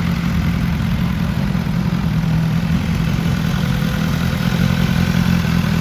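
BMW S 1000 R's inline-four engine idling steadily.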